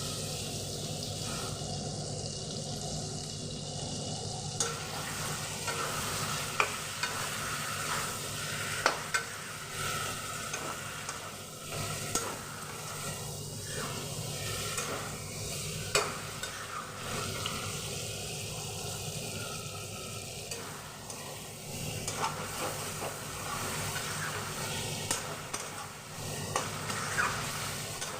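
Chicken pieces frying with onions and spices in a karahi, sizzling steadily while being stirred, with sharp knocks of the stirring spoon against the pan now and then.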